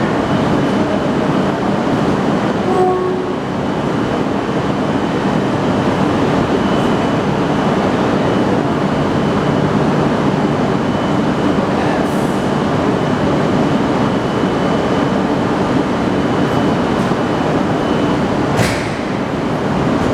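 E5 and E6 series Shinkansen trains at the platform during coupling: a steady, loud rail noise. There is a brief squeal about three seconds in and a short sharp sound near the end.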